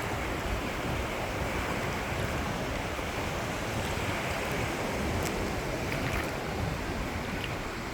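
Steady outdoor rushing noise with a fluttering low rumble, with a few faint high ticks or chirps.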